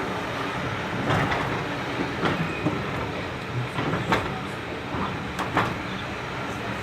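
Heritage railway train running along the track: a steady rumble with sharp, irregular clicks of the wheels over the rail joints.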